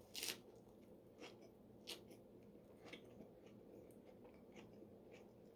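Faint close-up chewing with a few small mouth clicks and soft crunches. The sharpest crunch comes right at the start.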